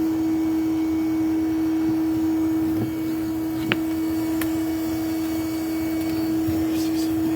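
Vacuum motor running steadily with an even, unchanging hum, the kind of bee vacuum used to suck up live bees during a removal. A few light clicks sound about halfway through.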